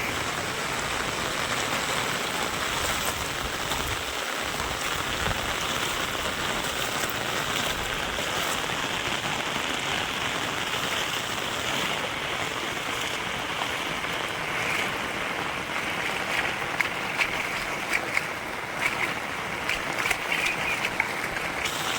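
Rain falling steadily, a dense even hiss of drops, with sharper drip and splash hits standing out in the second half.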